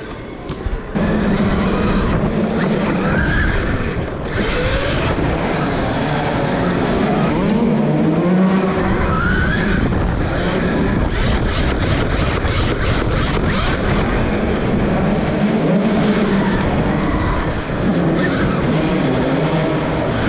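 Gas KTM dirt bike's engine revving up and down as it is ridden around the track, its pitch rising and falling with the throttle. The clutch on this bike is slipping or not engaging.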